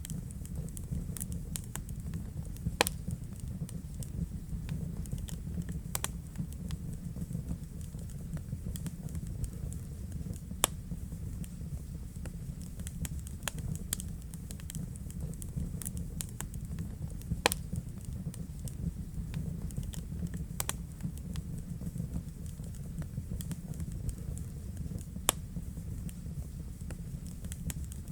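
Wood fire burning in a fireplace: a steady low rumble of flames with irregular crackling and occasional louder pops from the burning logs.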